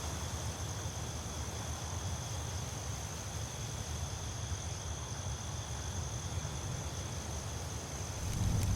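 Night insects, crickets, trilling steadily at a high pitch over a low rumble. Near the end a fire starts to crackle with a few sharp pops.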